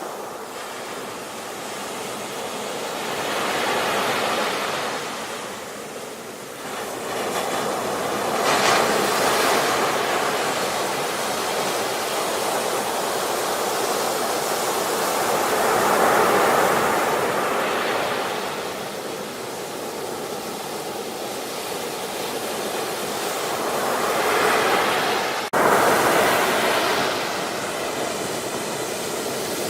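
Ocean waves breaking and washing in, a continuous surf rush that swells and eases every several seconds. A brief sudden dip about three-quarters of the way through, then a loud surge.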